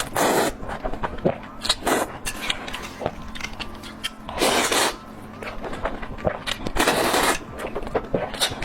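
Mouth eating sounds: many small wet clicks of chewing and lip smacking, with about four louder noisy bursts a couple of seconds apart.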